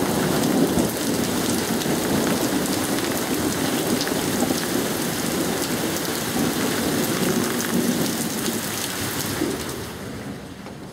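Heavy wind-driven rain pelting down, a dense hiss full of sharp drop impacts, easing off near the end.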